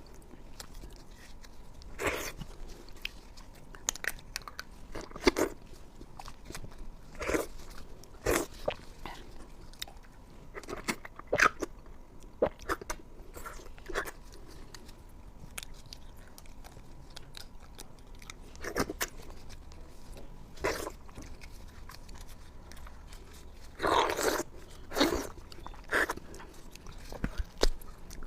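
Close-miked eating: separate crisp bites and chewing sounds every second or two, with a louder run of bites near the end.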